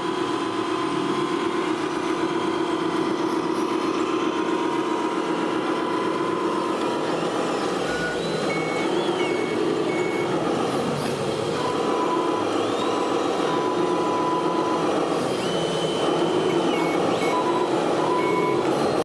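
Repeating electronic reversing beeps over a steady engine-like hum, as played by the sound modules of radio-controlled model trucks. About halfway through, higher short beeps and a few rising and falling electronic tones join in.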